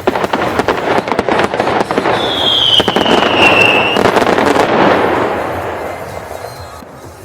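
Fireworks going off: a dense run of sharp crackling bangs that builds, with a high whistle falling in pitch partway through, then fades away near the end.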